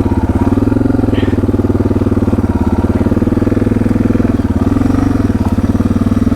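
Suzuki DR650's single-cylinder four-stroke engine running at low revs, pulsing evenly as the bike is ridden slowly through long grass, with a brief rise in revs about five seconds in.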